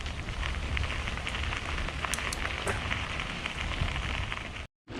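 Bicycle tyres rolling over a crushed-stone trail: a steady gritty crackle, with a low wind rumble on the microphone. The sound cuts out for a moment near the end.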